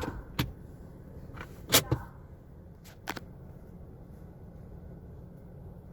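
Istobal MNEX 22 in-bay automatic car wash running, heard as a steady low rumble, with about six sharp knocks in the first three seconds, the loudest about two seconds in.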